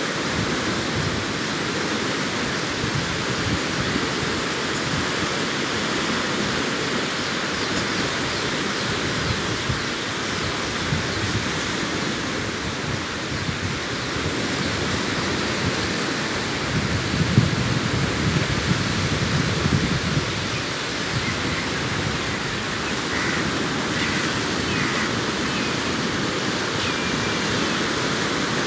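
Sea surf breaking and washing on a beach: a steady rush of waves, with one louder surge a little past the middle.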